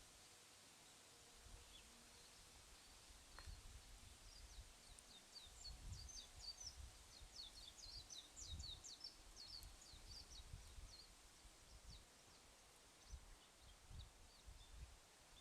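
Faint bird chirping: a quick run of short, high chirps, busiest in the middle, over a low rumble of outdoor background noise.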